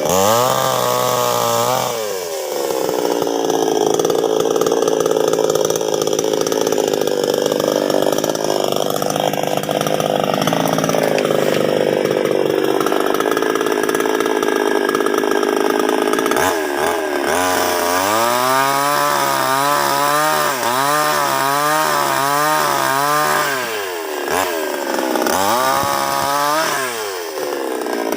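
Chainsaw cutting wood, its engine note pulled down under load for about the first half. After that it revs up and down in quick throttle blips.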